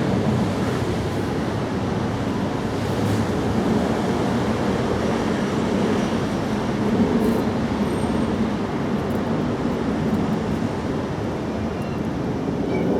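A steady low rumble of background noise, even in loudness throughout, with no clear calls standing out.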